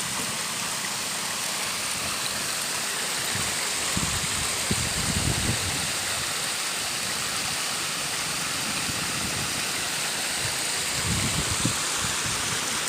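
Waterfall rushing steadily, an even roar of falling water. There are low rumbles about four seconds in and again near the end.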